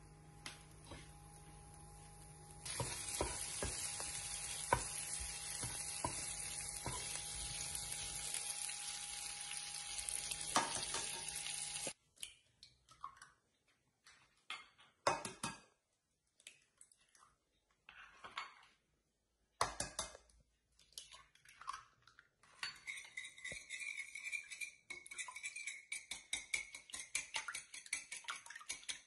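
Diced cured pork sizzling in a nonstick frying pan, with a steady hiss and small pops. After a cut, eggs are cracked against a glass bowl in a few sharp knocks. Then a wire whisk beats the eggs, clicking quickly against the glass.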